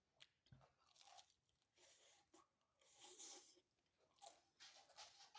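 A person chewing food close to the microphone, faint, with soft crunches and wet mouth clicks coming in irregular bursts; the loudest stretch is about three seconds in.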